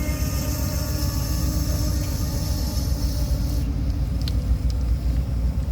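VIA Rail passenger train coming into the station, its diesel locomotive giving a steady low rumble. A higher hiss stops about two-thirds of the way in, followed by a few faint clicks.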